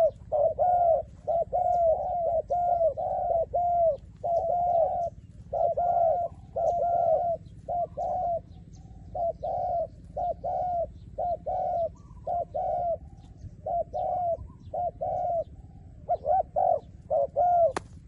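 A decoy dove cooing over and over, short low notes in quick runs with brief pauses between them. A sharp click sounds near the end.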